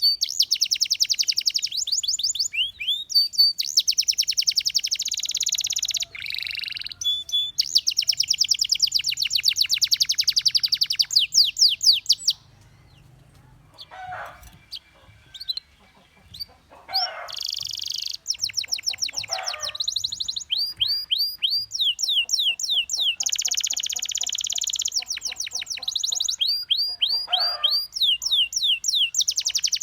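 Domestic canary singing in long, fast trills of rapidly repeated high notes. The trills break off for a few seconds near the middle, where only a few fainter calls sound, then resume.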